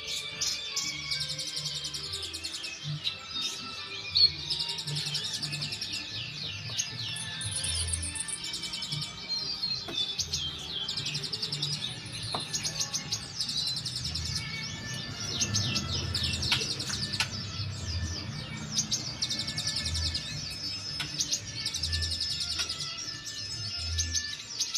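Many sunbirds (kolibri ninja) chirping and twittering together in a dense, unbroken chorus of rapid high calls, with irregular low thumps underneath.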